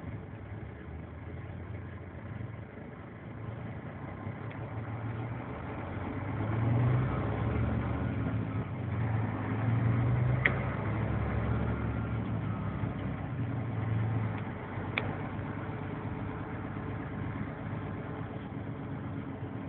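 Scania 124 L 360 truck's diesel engine running, growing louder for several seconds in the middle and then settling back, with two short sharp clicks.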